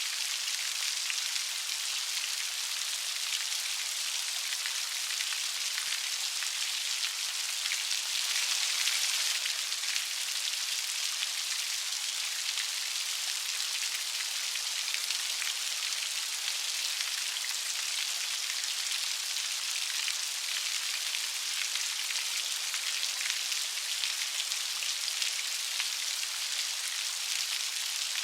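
Light, steady rain pattering, an even hiss of many small drops with a slight swell about eight seconds in.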